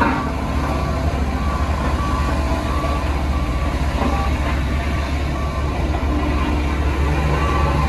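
Heavy diesel construction machinery running with a steady low rumble, and a reversing alarm sounding a regular run of short high beeps over it.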